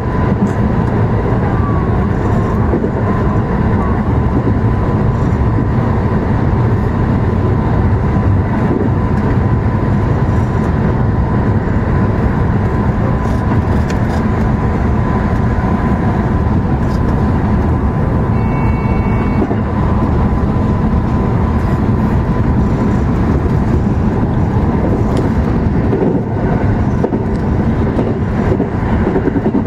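JR West 221 series electric train running at speed, heard from inside at the front of the train: a steady rumble of wheels on rail and motor noise. A short high two-tone beep sounds about two-thirds of the way through.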